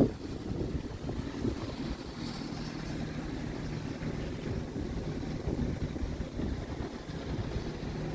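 Diesel engine of a Scania P truck idling steadily, a low even rumble.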